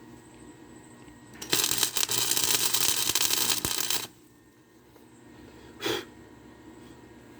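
Electric arc welder laying a short weld bead on steel pipe: a loud, steady crackle that lasts under three seconds and cuts off sharply, then a brief second burst of crackle near the end.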